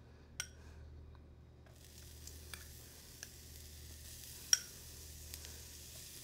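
Chopped shallots sizzling faintly in butter in a stainless sauté pan. The sizzle builds from about two seconds in, with a few light clicks.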